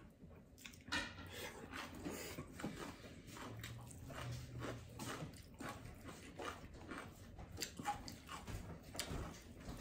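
Mukbang eating sounds: chewing and wet mouth smacks, many short irregular clicks a second, with fingers working through rice and meat on a plate.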